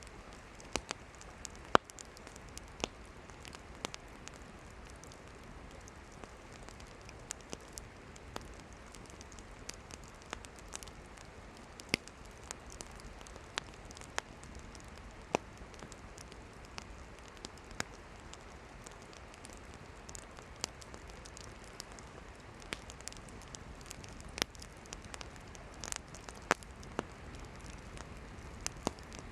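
Wood campfire crackling: irregular sharp pops and snaps from the burning firewood over a steady soft hiss, with one louder pop about two seconds in.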